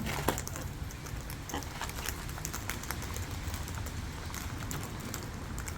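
Scattered light ticks and taps over a steady low rumble.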